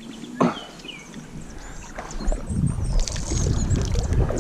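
Sponge wiping and wringing water out of a kayak's hull, with a sharp knock against the boat about half a second in. Low wind rumble on the microphone builds through the second half.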